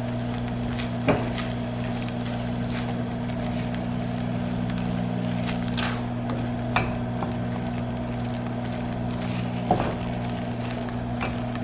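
Shredded chicken mixture sizzling in a pan on the stove, with a few sharp clicks of a utensil against the pan. Under it runs the steady hum of a microwave heating.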